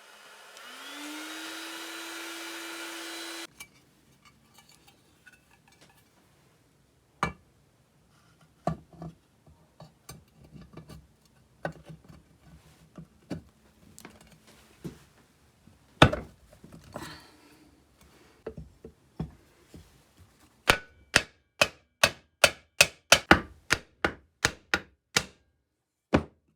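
A power tool motor winds up to a steady whine and cuts off abruptly after about three seconds. Then come scattered clicks and knocks of parts and tools being handled. Near the end there is a quick run of about a dozen evenly spaced sharp taps, like a small hammer on metal.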